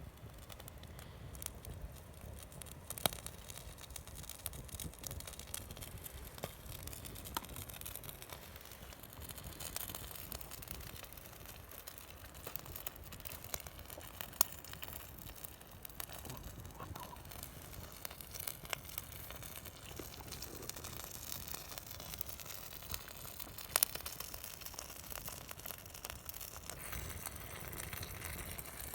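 Wood fire crackling, with irregular sharp pops and snaps; three pops stand out as louder, about 3, 14 and 24 seconds in.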